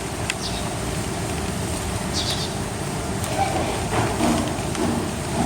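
A few faint, short high bird chirps over a steady rushing background noise.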